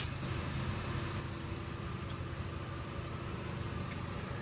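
Steady low mechanical hum, like an idling engine.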